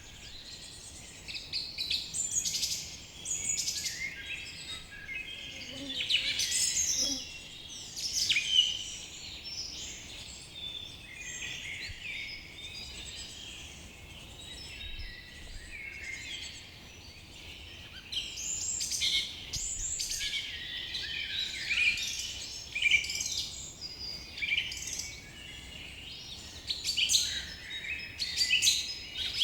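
A chorus of several songbirds singing and calling together, a steady overlapping stream of chirps, trills and short sweeping notes.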